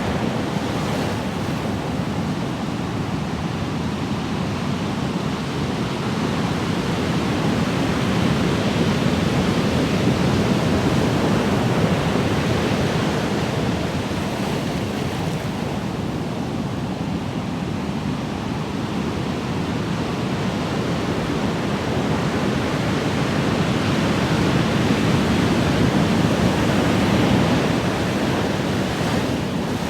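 Ocean waves breaking and washing in continuously, a dense hiss and rumble that slowly swells and eases over several seconds.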